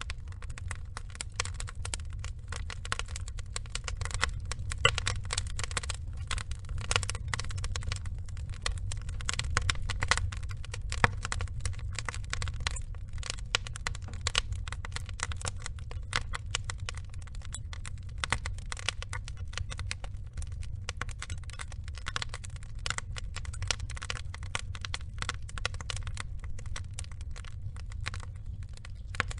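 Burning wood logs crackling: a dense, irregular stream of small pops and snaps with a few louder cracks, over a steady low rumble of the fire.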